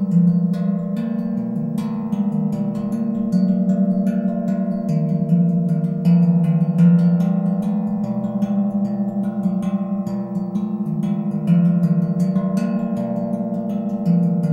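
Propane tank tongue drum played in a steady stream of strikes: ringing metal notes that sustain and overlap, the low notes changing every second or so.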